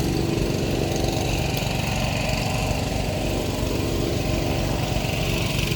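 A small engine running steadily at constant speed, with a fast, even firing beat.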